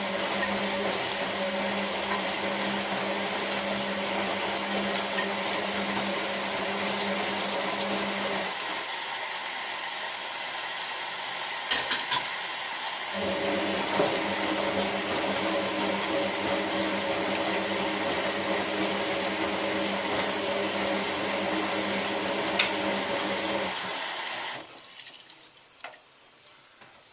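Hotpoint 9534A washing machine tumbling its wash: the drum motor hums steadily with water swishing in the drum. About 8 s in it stops for around four seconds, turns again, and stops near the end. There are a few sharp clicks along the way.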